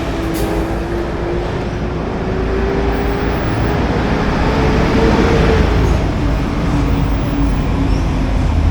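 Street traffic noise, with a motor vehicle passing close: its engine hum rises slightly in pitch and grows louder a little past halfway, then drops away.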